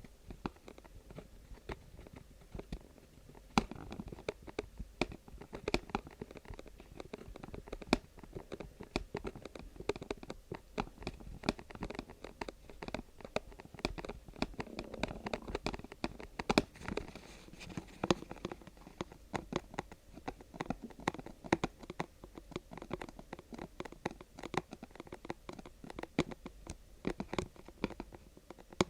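Close-miked ASMR tapping and scratching on objects, a dense, irregular run of light clicks and taps with crinkly rustling between them.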